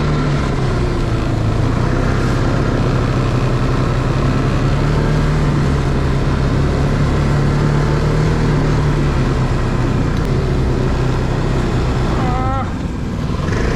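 Snowmobile engine running steadily while the machine is ridden, with its pitch holding fairly even and easing slightly near the end.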